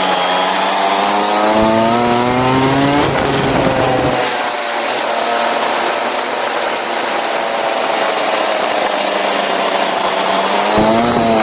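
Go-kart engine accelerating, its pitch climbing for about three seconds, then dropping sharply as the throttle eases. It holds a steady note, then climbs again near the end, over a constant noisy rush.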